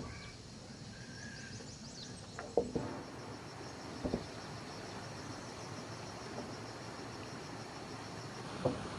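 Insect chirping in a fast, even pulse, with a short high call about a second in and a few scattered sharp knocks.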